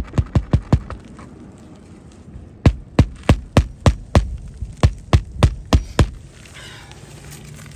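Hammer blows on a roof, most likely driving nails into a replacement asphalt shingle: a quick run of about five strikes, then after a pause about a dozen steady blows, roughly three a second.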